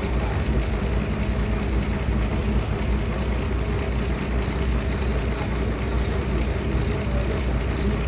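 Sawmill machinery running with a steady low drone and a constant level, without any clear start or stop.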